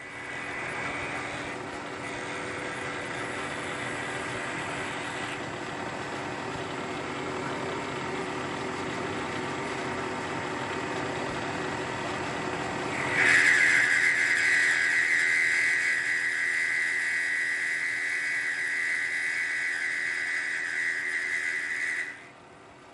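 Bridgeport milling machine running, its spindle and motor giving a steady hum. About halfway through, a 2-flute end mill starts a side cut on an aluminium block and a loud, steady high-pitched whine takes over, then cuts off suddenly near the end.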